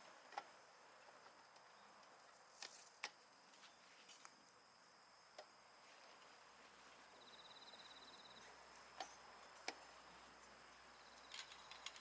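Near silence outdoors: a faint insect trill with a high steady tone, a short pulsed burst of it about seven seconds in, and a few light scattered clicks and knocks.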